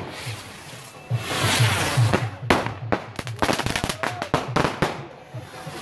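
Fireworks going off: a rapid string of sharp cracks and bangs, with a dense crackling fizz between about one and two seconds in.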